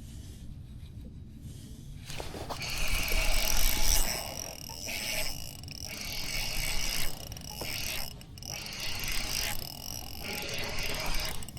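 Spinning reel cranked in spells with a whirring, ratchety sound while fighting a hooked spotted bass.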